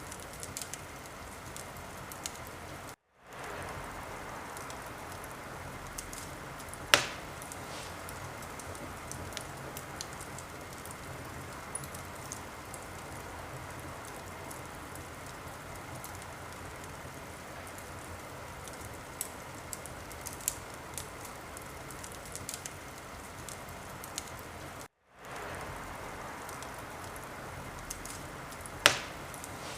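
Wood fire crackling in a fireplace: a steady hiss with scattered small pops, and two sharp loud pops, about seven seconds in and near the end. The sound cuts out for a split second twice, about three seconds in and about twenty-five seconds in.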